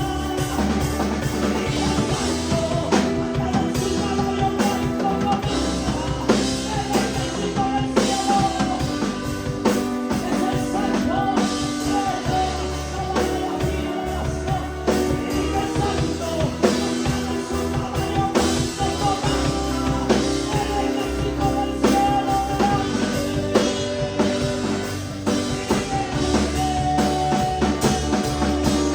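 Live worship band playing an upbeat chorus with drum kit, bass and guitar, with singing over it.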